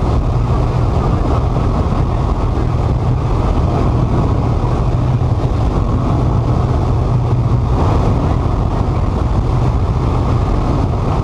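Steady drone of an aircraft's engine and airflow heard inside the cockpit, a constant low hum with no change in pitch.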